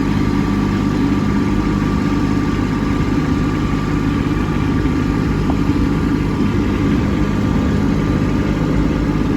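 Kubota B2601 compact tractor's three-cylinder diesel engine running at a steady speed, with no rise or fall in pitch.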